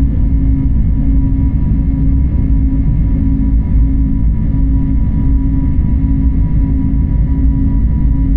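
Airliner cabin noise: a steady, loud low rumble of engines and airflow with faint constant hums above it, unchanging throughout.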